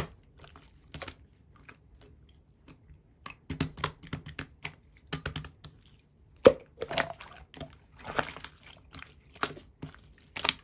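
Blue clear slime being squished and pressed by hand, giving irregular sticky clicks and small bubble pops, with one sharper pop about six and a half seconds in.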